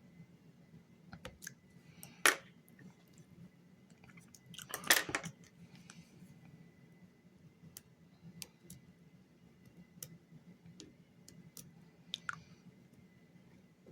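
Pin tumbler lock being picked: scattered small metallic clicks of the pick and pins under tension. There is a sharp click about two seconds in, a louder cluster of clicks about five seconds in, and another click near the end.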